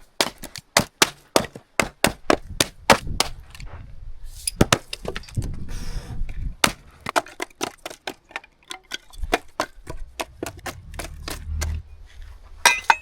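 Firewood knocking and cracking: many sharp wooden knocks in irregular succession.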